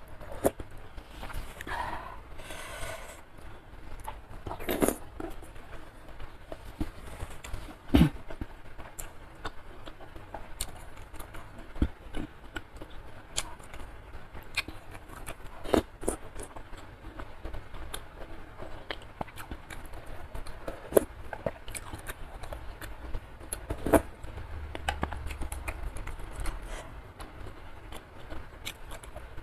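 Close-miked eating sounds: wet chewing and lip smacks on spicy curry noodles and chewy beef skin, with many short sharp clicks and smacks at irregular intervals, a few of them louder.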